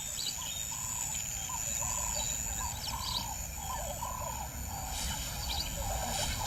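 Wild birds calling: a steady run of short, repeated arched notes, several a second, with fainter higher chirps and a thin, steady high-pitched buzz of insects.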